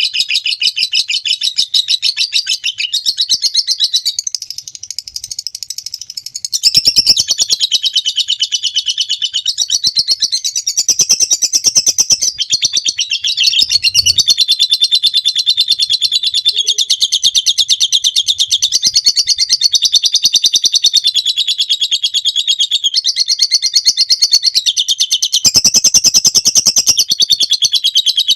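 Lovebird singing a long 'ngekek' chatter: a fast, unbroken run of high-pitched rapid notes. It dips quieter for a couple of seconds about five seconds in, then picks up again.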